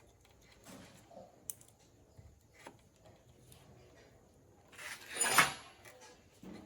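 Scattered light clicks and knocks of small objects being handled, then a short, loud hissing or scraping burst about five seconds in.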